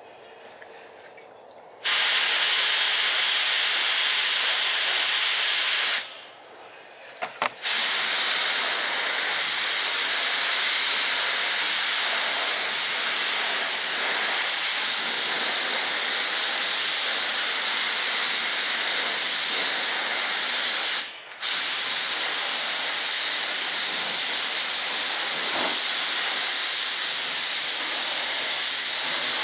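Paint spray gun spraying epoxy primer: a steady hiss of air and atomised paint that starts about two seconds in, stops for about a second and a half a few seconds later, then runs on with one very brief break over two-thirds of the way through as the trigger is released and pulled again.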